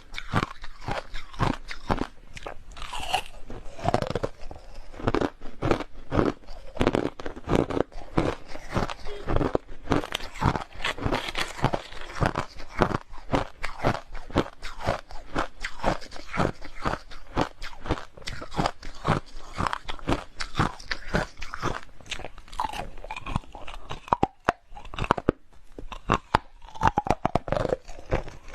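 Hard, clear crushed ice being bitten and chewed close to the microphone: rapid, continuous crunching, several crunches a second.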